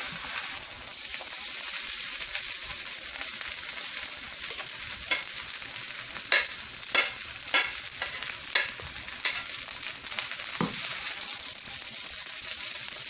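Food frying in hot oil in a pan, a steady sizzle, with a run of sharp clicks of a utensil against the pan or plate in the middle and a single dull knock a little later.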